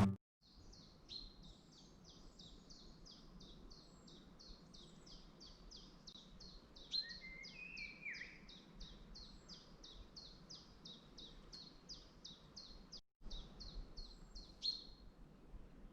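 Faint birdsong: a bird repeats one short high note about three times a second, and a lower, sliding phrase from another bird comes in twice, over a soft outdoor hiss. The sound cuts out for a moment about two-thirds of the way through.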